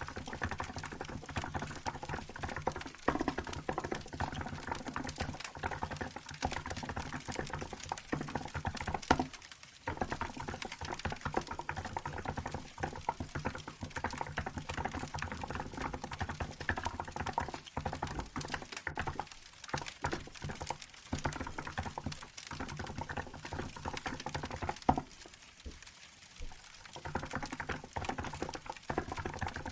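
Steady typing on a Hansung GK868B mechanical keyboard with milk-white keycaps: rapid keystrokes clattering continuously, with short pauses about ten seconds in and again near the end.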